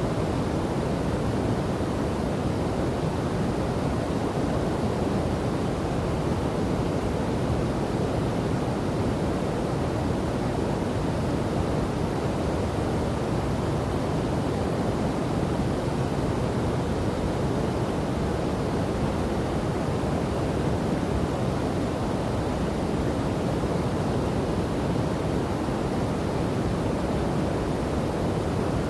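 Waterfall and river water rushing steadily, an even noise weighted toward the low end with no changes or separate events.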